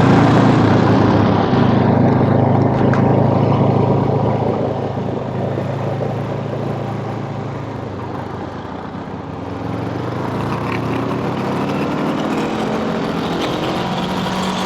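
Motor scooter engine running while riding. The engine note eases off and quietens around the middle, then rises again as it picks up speed.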